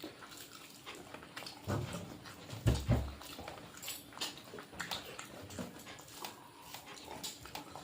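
A dog whimpering softly, with scattered small clicks and a short low thump about three seconds in.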